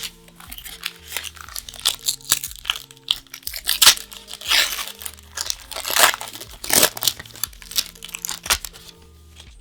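Magic: The Gathering booster pack foil wrapper being torn open and crinkled by hand: a run of sharp crackles and rips, loudest about four and seven seconds in.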